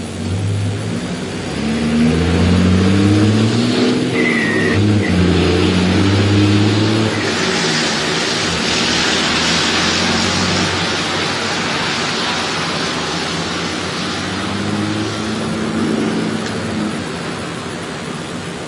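Pickup truck engine revving, its pitch rising and falling several times, then running on under a broad rushing hiss from about eight seconds in.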